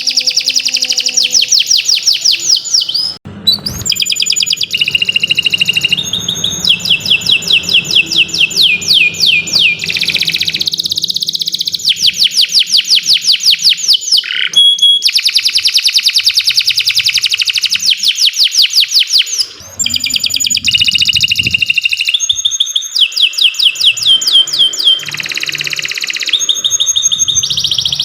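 Domestic canary singing a long, loud song made of rapid trills, each a fast run of repeated notes, switching from one trill to the next every second or two, with short breaks about three seconds in and again near twenty seconds.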